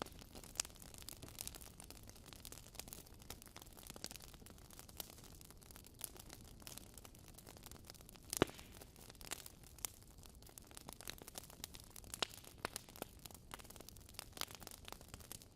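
Wood fire in a fireplace crackling: irregular sharp pops and snaps over a soft steady hiss, with one louder pop about halfway through.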